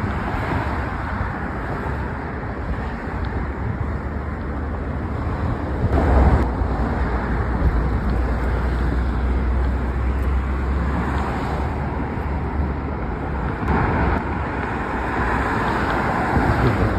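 Road traffic with cars driving past. One passes close about six seconds in with a low rumble that lasts several seconds, and another goes by near the end.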